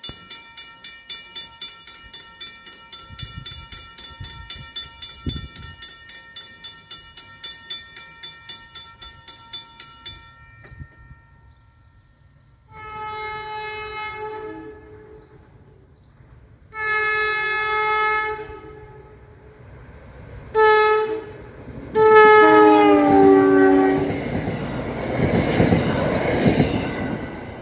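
A grade-crossing warning bell rings at about two and a half strikes a second, then stops. A New Jersey Transit commuter train's horn then sounds the grade-crossing signal of two long blasts, a short one and a long one, its chord dropping in pitch as the train passes. The loud rush of the train going by follows.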